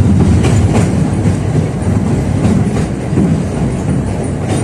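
A 71-605A (KTM-5A) tram running along the track, heard from inside the car: a steady low rumble with the wheels clacking over rail joints several times.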